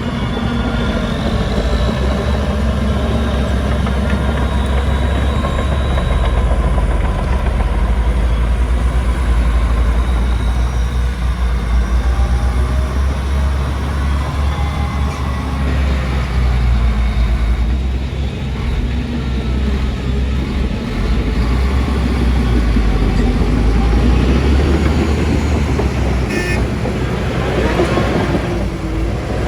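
Heavy diesel engine of earthmoving machinery running steadily, with a deep, low-pitched sound. A short high-pitched squeak comes near the end.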